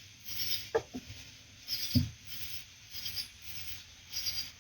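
Night insects chirping in a steady repeating rhythm, with three short low thuds about three-quarters of a second, one second and two seconds in.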